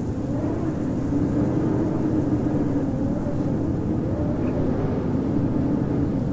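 Howling blizzard wind: a steady, deep rush of gusting air with a low, wavering howl that slowly drifts up and down in pitch.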